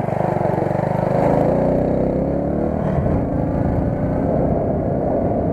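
Motorcycle engine running under way, its revs climbing over the first second or so and then easing back, over a low rush of wind and road noise.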